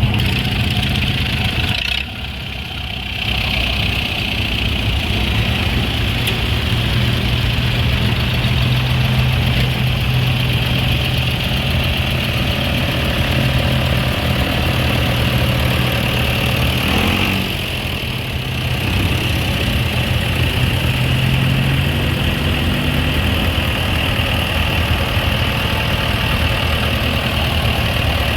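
An engine running steadily at idle, its level dipping briefly twice.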